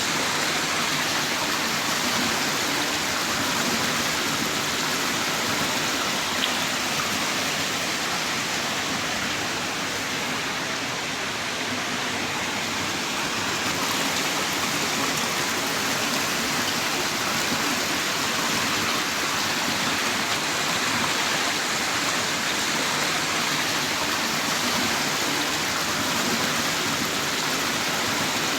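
Heavy rain falling steadily in a downpour, a constant dense hiss with the odd louder single drop.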